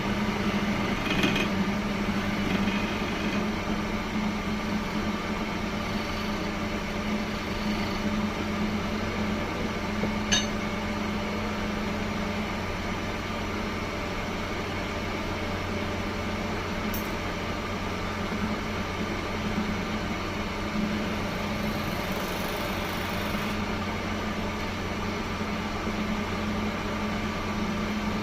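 Woodworking machine's electric motor running steadily with a low hum, with a few faint clicks.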